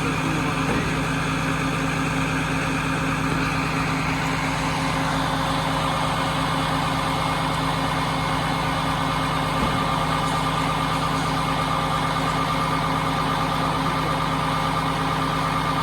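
Scania truck's diesel engine running steadily at idle, a constant low drone with a higher whine over it that grows stronger after about six seconds.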